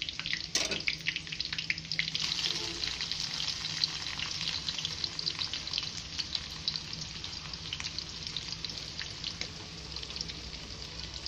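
Chopped onions frying with ginger and garlic in hot oil in an aluminium karahi: a steady crackling sizzle, loudest in the first few seconds as the onions go in, then settling. A single sharp knock sounds about half a second in.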